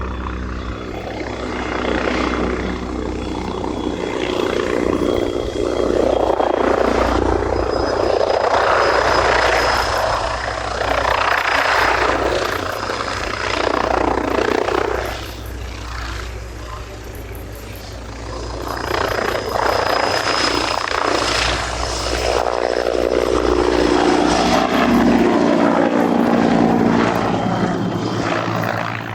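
AH-129D Mangusta attack helicopter flying its display: rotor beat and turbine whine swelling and fading as it manoeuvres, with a quieter spell about halfway through before it grows loud again.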